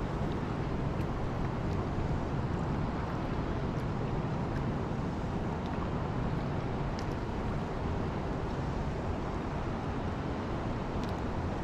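Steady wind buffeting the microphone over the rush of fast, flood-high creek water, with a few faint ticks.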